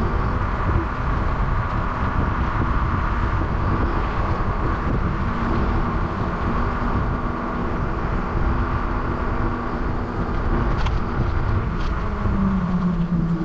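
Steady rumble of wind and road noise from riding a bicycle among motor traffic, with a faint steady hum and two faint clicks near the end.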